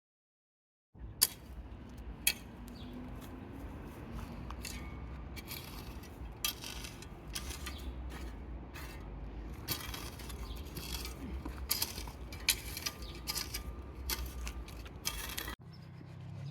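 Scattered sharp clicks and clinks of small hard objects being handled, over a steady low hum. Two louder clicks come early, and the clinks grow busier in the second half.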